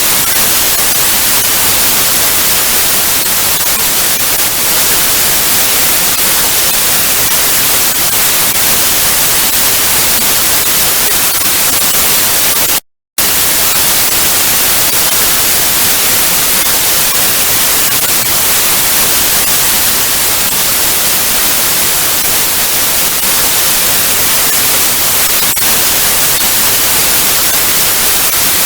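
Steady TV static hiss: even white noise strongest in the high frequencies. It cuts out completely for a split second about halfway through, then resumes.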